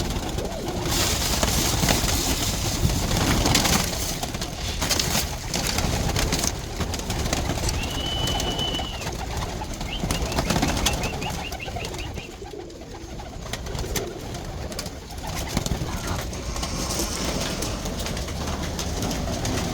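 Domestic roller pigeons cooing, over a steady noisy rustle with scattered clicks. A brief high squeak sounds about eight seconds in.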